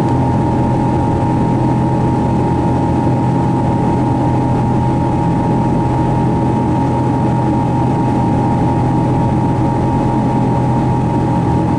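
Steady jet engine and rushing air noise heard inside the cabin of a Boeing 777-200 under power, with a constant low hum and a steady higher whine.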